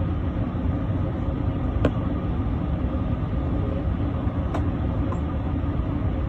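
Steady low rumble of an airliner cabin in flight, from engine and airflow noise, with two small clicks about two seconds and four and a half seconds in.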